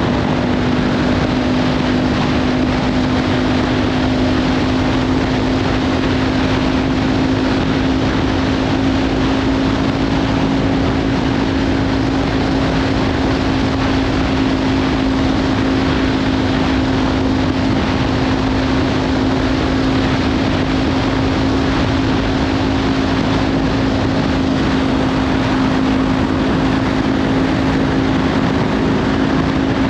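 Kawasaki Ninja 500 parallel-twin engine with a LeoVince slip-on exhaust, pulling at steady revs on the move. Its note rises a little in the first second, then holds level under heavy wind noise on the microphone.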